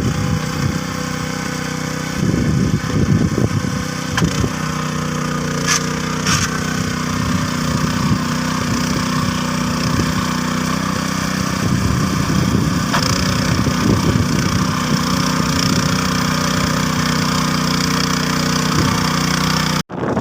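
Tractor engine running steadily under load while cultivating soil, with irregular clattering over the engine note. The sound drops out briefly near the end.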